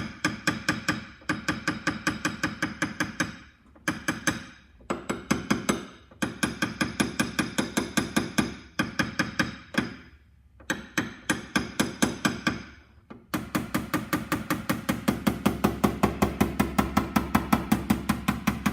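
Rapid hammer taps on a drumstick knockdown tool, knocking down high spots in a car door's sheet metal during paintless dent repair. The taps come about four or five a second with a slight metallic ring, in short runs with brief pauses, then one unbroken run for about the last five seconds.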